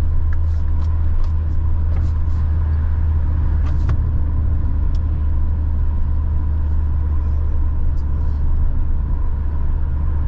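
Car driving steadily at highway speed, heard from inside the cabin: a constant low engine and road rumble.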